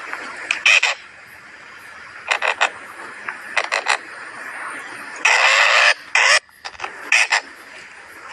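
Birds giving short harsh calls in quick clusters of two to four, with one longer harsh call about five seconds in, over a steady background hiss.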